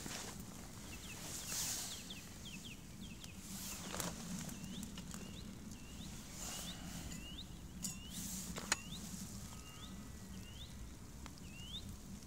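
A small bird calling over and over with short rising chirps, against a steady low outdoor rumble, with a few sharp clicks.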